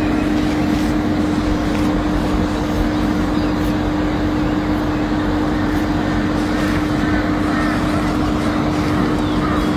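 A steady motor hum at one pitch under a constant rushing noise, with a few faint short bird chirps in the second half.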